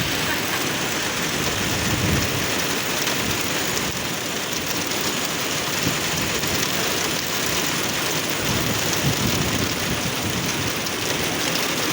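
Heavy rain pouring down steadily as a dense, even hiss, with low rumbles swelling about two seconds in and again near nine seconds.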